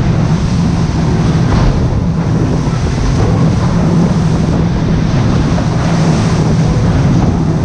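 Steady, loud engine drone with a constant low hum under a rushing noise.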